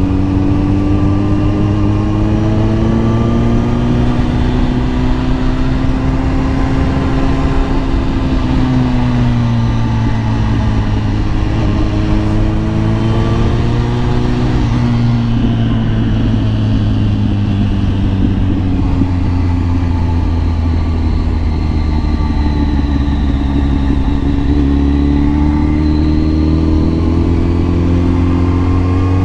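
Kawasaki ZX-10R sport bike's inline-four engine running under way, its pitch drifting slowly up and down with gentle changes of throttle and no hard revving.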